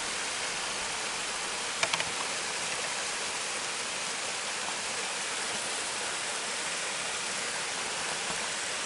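Mountain stream rushing over rocks, a steady even hiss of water, with a couple of light clicks about two seconds in.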